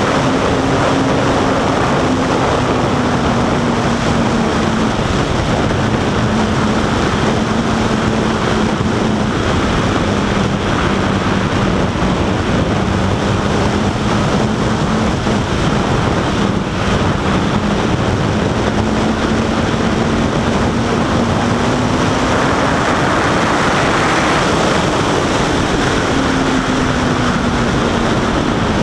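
Honda CBR1000RR Fireblade's inline-four engine running at a steady cruise, its pitch drifting slowly down and back up, under loud wind rush on the microphone.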